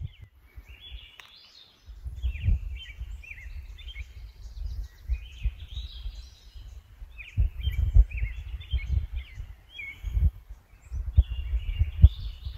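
A songbird singing: short chirping and warbling phrases repeated again and again, over an uneven low rumble.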